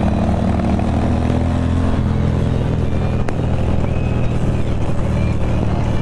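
Motorcycle engine running steadily while riding, with a slight change in engine note about two seconds in and a single brief click a little after three seconds.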